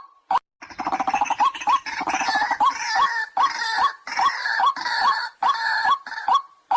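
White-breasted waterhen calling. A clipped repeated note opens, then a rough, churring mass of croaks and grunts sets in, with call notes repeating about two to three times a second. The clipped notes return near the end.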